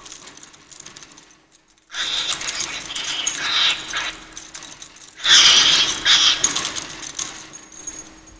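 Cockatiel in a wild night-time outburst: harsh screeching mixed with rattling, in two loud bursts starting about two and five seconds in.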